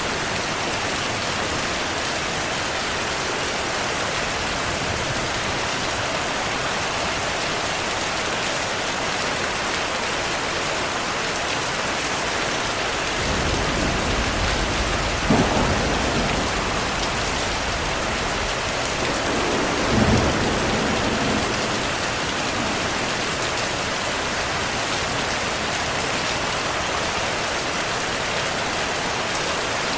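Steady heavy rainfall with a thunderstorm: about halfway through, a low thunder rumble builds, with two sharp cracks a few seconds apart, then rolls away under the rain.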